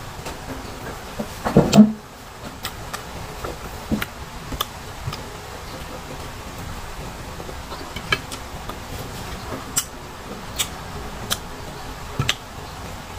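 Close-up eating sounds of crisp unripe green mango slices: a loud crunching bite about two seconds in, then scattered sharp crunches as they are chewed, over a steady background hiss.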